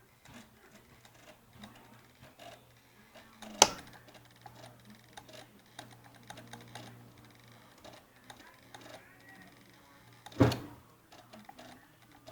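Two sharp clicks about seven seconds apart among small scattered clicks from handling the motorcycle's controls, over a faint steady hum. No starter motor cranks: the bike is dead when the start is tried.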